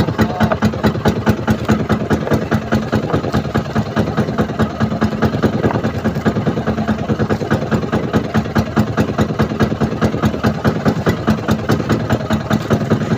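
Small fishing boat's engine running steadily: a fast, even chugging over a constant hum.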